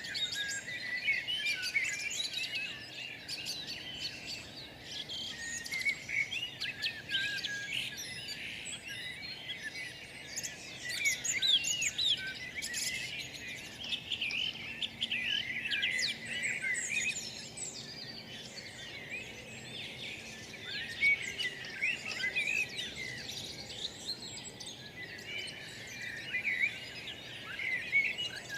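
Many small birds chirping and twittering at once, a dense overlapping chorus of short high calls that goes on without a break.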